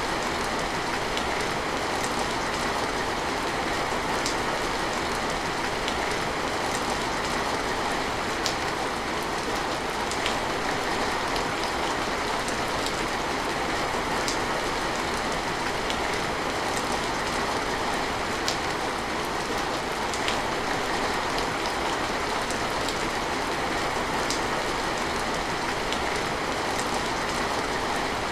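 Steady rain falling, an even hiss with scattered sharper drops ticking every second or two.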